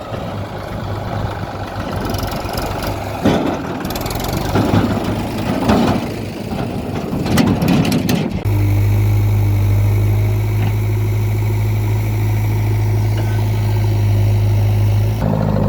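Heavy diesel engine of earthmoving or farm machinery running, with several brief noisy surges in the first half; about halfway in the sound switches abruptly to a louder, very steady low engine hum.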